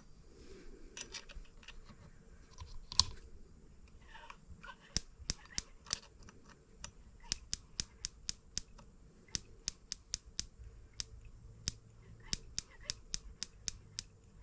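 Sharp, irregular snapping ticks, two or three a second from about five seconds in, from the high-voltage ignition of a model M25 sideshaft engine sparking. Some of the spark is arcing at a faulty plug boot instead of only at the electrode. Before that, a few lighter handling clicks.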